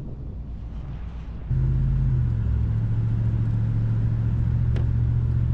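Wind buffeting the microphone, then about a second and a half in a sudden change to the steady low drone of a pickup truck driving on the road, heard from inside the cab.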